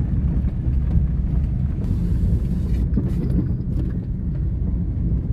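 Loud, steady low rumble with no clear pitch.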